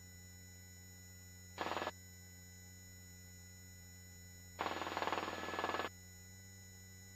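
Steady low hum of a helicopter as heard through the headset intercom, with two sudden bursts of hiss as a microphone opens: a short one about a second and a half in and a longer one of about a second and a half near the end.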